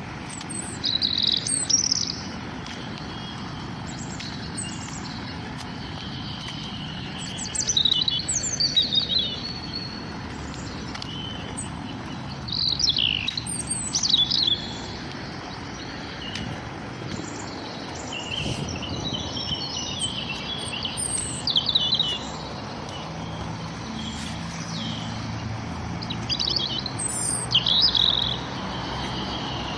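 Songbirds singing in the morning: bursts of quick, high chirps and trills come every five or six seconds over a steady low background rumble.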